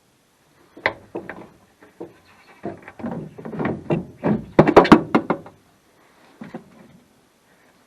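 Irregular knocks and clunks of tools and suspension parts being handled, busiest about halfway through, with a quick run of loud sharp knocks around five seconds in, then dying down.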